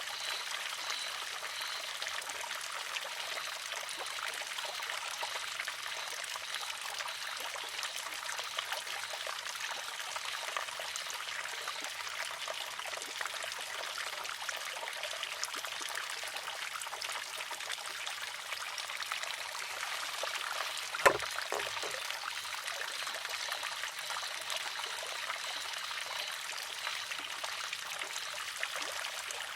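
Water trickling steadily through a wooden shishi-odoshi. About two-thirds of the way through, the arm tips and strikes the stone with a single sharp clack, followed just after by a fainter knock.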